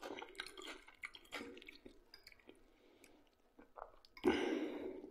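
Close-miked chewing with small wet clicks and squishes of food in the mouth, and a louder, longer noisy sound about four seconds in.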